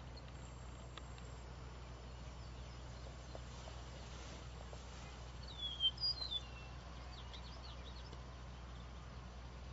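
A bird gives a quick run of three or four falling chirps about halfway through, over a steady low outdoor hum.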